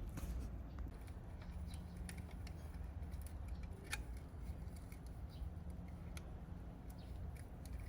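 Faint scattered light clicks and ticks over a low steady hum, one a little sharper about four seconds in.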